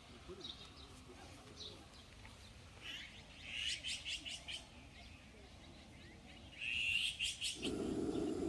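A songbird singing two bursts of rapid high chirps, with a few faint single calls before them. A steady low noise comes in near the end.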